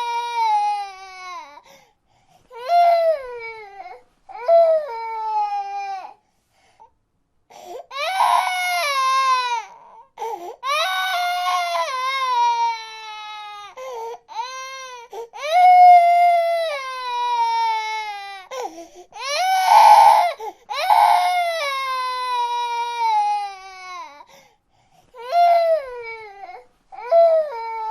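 Infant crying in a series of wails, each falling in pitch, broken by short pauses for breath.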